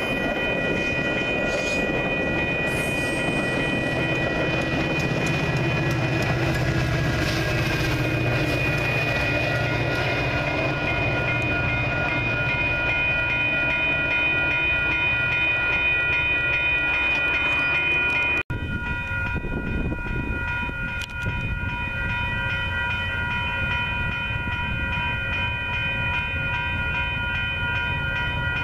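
Metra commuter train of bilevel gallery cars rumbling past a grade crossing while the crossing's warning bells ring without pause. About two-thirds of the way through the sound drops out for an instant, then the bells go on over a lower, steadier rumble.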